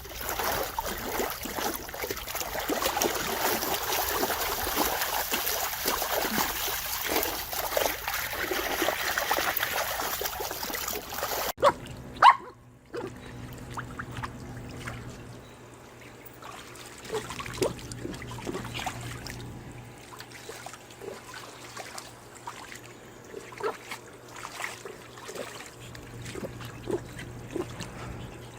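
Water splashing and sloshing in a dog's plastic paddling pool as a dog moves through it. About twelve seconds in the sound cuts abruptly and there is a sharp knock. After that come quieter scattered drips and small splashes.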